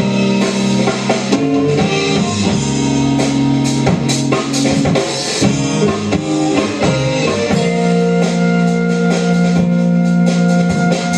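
Instrumental band music: electric guitar and bass over a drum kit playing a steady beat, with a chord change about eight seconds in.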